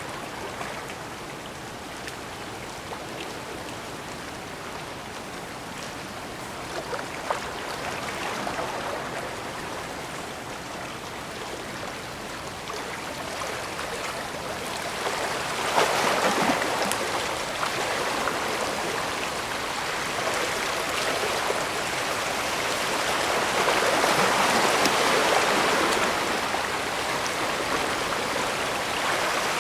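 Bay water washing and lapping against the shore in a steady rush, growing louder about halfway through and again near the end as bigger swells come in.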